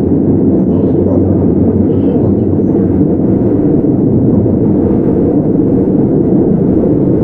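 Keihan 9000 series electric train running, heard from inside the car: a steady rumble of wheels on rail and running gear, with no clear inverter whine.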